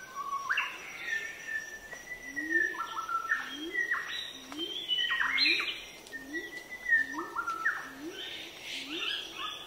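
Several forest birds chirping and singing in short, quick phrases. Underneath, a soft low rising call repeats about every two-thirds of a second.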